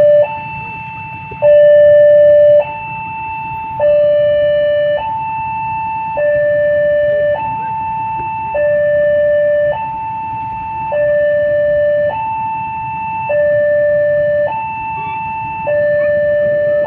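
Railway level-crossing warning alarm sounding its two-tone signal, a higher and a lower note alternating about every second with the higher note louder, warning that a train is approaching.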